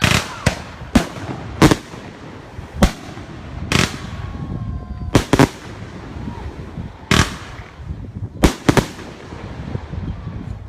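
Fireworks going off in an irregular series of sharp bangs, about a dozen in ten seconds, several followed by a short echoing tail.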